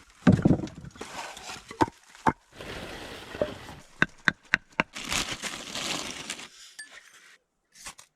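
Camping gear being handled and moved about: rustling with a thud near the start and several sharp clicks and knocks, four in quick succession about halfway through. It goes quiet near the end.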